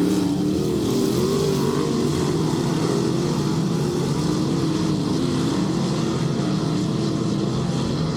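Dirt-track race cars running laps on an oval, their engines' pitch rising and falling as they go through the turns.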